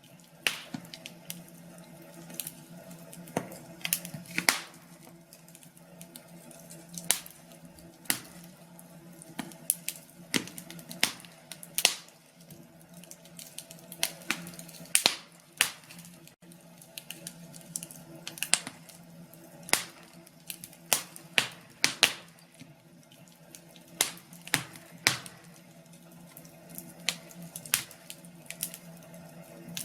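Wood fire crackling, with irregular sharp pops and snaps of varying loudness over a faint steady hum.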